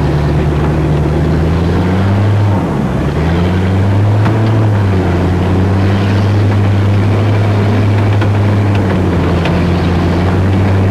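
Car engine and exhaust running with a steady, loud, low drone while the car drives, heard through the open side window. About two and a half seconds in the pitch drops briefly and climbs back, then holds steady.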